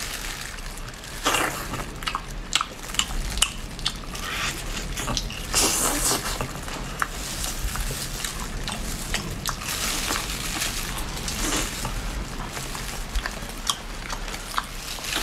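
Close-up mouth sounds of a person biting and chewing whole octopus tentacles: many scattered wet clicks and smacks, with a few louder swells.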